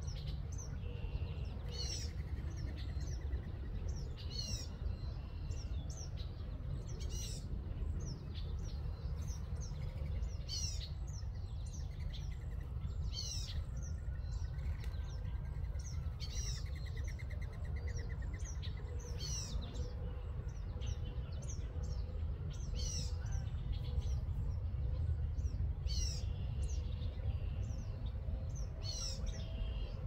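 Songbirds calling outdoors: short, high notes that sweep downward, repeated every second or two, with a couple of brief buzzy trills. A steady low wind rumble on the microphone runs underneath.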